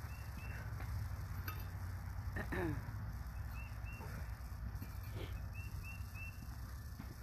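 A small bird chirping in short high notes, in twos and threes, over a steady low outdoor rumble.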